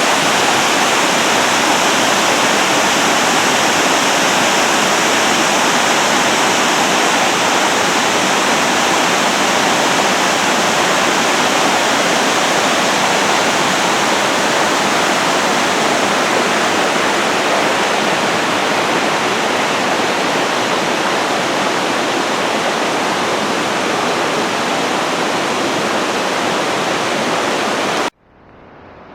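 Steady rush of water pouring over a waterfall, loud and even, cut off abruptly about a second before the end.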